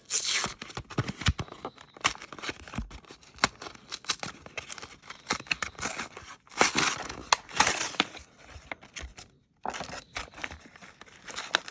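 Plastic blister packaging and foil booster packs being torn, cut and crinkled open by hand, with bursts of crackling and many sharp clicks and snaps.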